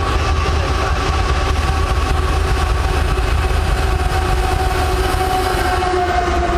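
Union Pacific diesel freight locomotives approaching and passing close by, engines running with a heavy, steady rumble. Several steady tones sound over it and drop slightly in pitch as the lead units go past near the end.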